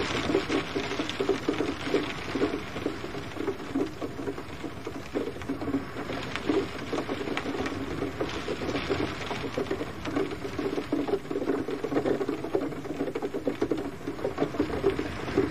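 Gentle rain pattering steadily: a dense, irregular spatter of drops landing on a surface.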